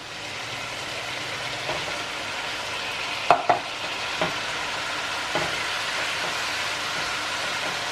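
Chicken sizzling in a frying pan, a steady hiss, with a few short knocks of a utensil against the pan, the loudest about three seconds in.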